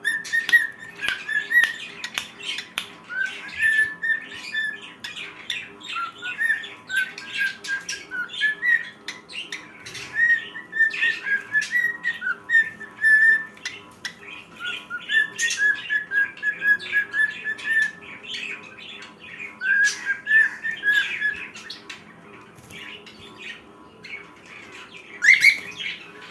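Cockatiel singing: about six phrases of short, warbling whistled notes that hover around one pitch, with sharp clicks throughout and a short rising squeak near the end.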